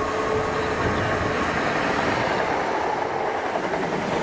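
Electric train running past on the line: a steady, loud noise of wheels on rail and traction equipment.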